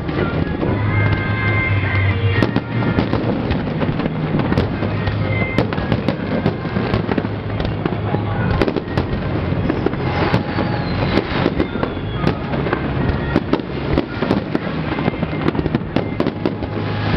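Aerial fireworks shells bursting in quick succession, a dense run of overlapping bangs and crackles with no break, with music playing underneath.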